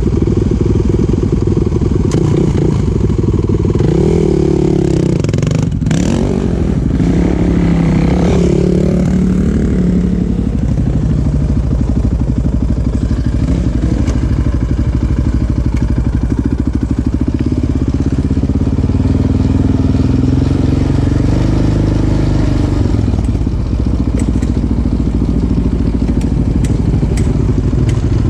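Off-road vehicle engine running under changing throttle, its pitch rising and falling several times a few seconds in, then running steadier.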